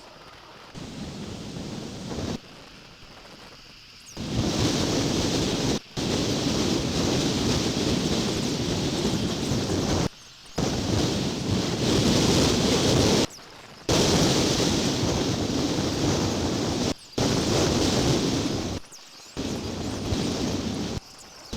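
Wind buffeting an outdoor nest camera's microphone: a loud, even rushing noise that cuts out abruptly several times and comes straight back.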